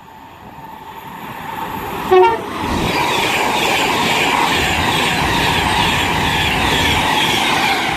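Class 390 Pendolino electric train approaching and passing at speed, its noise building over the first few seconds into a steady rush. The driver sounds a short two-tone horn about two seconds in.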